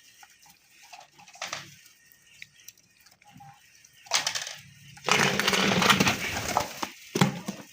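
Pigeons flapping their wings. There is a brief flurry about four seconds in, a louder one lasting about two seconds straight after, and a short last burst near the end.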